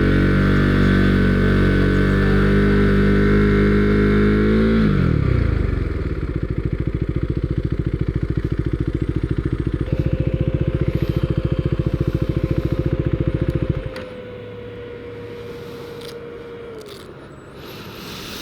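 Husqvarna Svartpilen 401's single-cylinder engine running, then dropping in pitch as the bike slows about five seconds in. It settles to an even idle and is shut off about 14 seconds in, leaving a faint steady hum.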